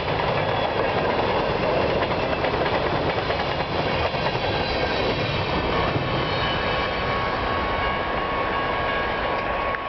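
Freight train cars rolling past, a steady rumble and rattle of steel wheels on the rails. Thin, high ringing tones join in about halfway through.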